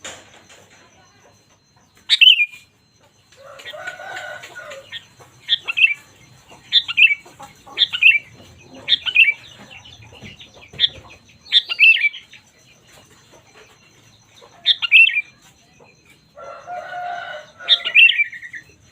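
Sooty-headed bulbul (kutilang) calling: a series of short, loud, falling notes, about one a second through the middle, with two longer, harsher bursts, one near the start and one near the end.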